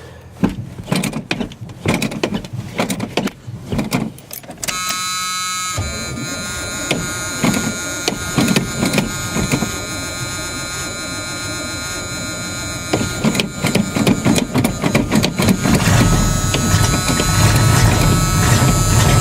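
Old tow truck being cold-started with the accelerator pumped: knocks and clicks, then a steady whine joins about five seconds in. Over the last few seconds a deeper engine sound builds as the engine catches and runs.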